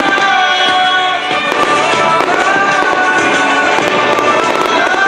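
Fireworks cracking and banging at a display, over loud music with sustained tones.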